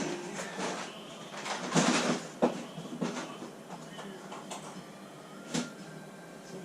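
Intermittent scraping and sharp knocks of hand work on the rusted bottom edge of a steel car door, loudest about two seconds in, over a faint steady hum.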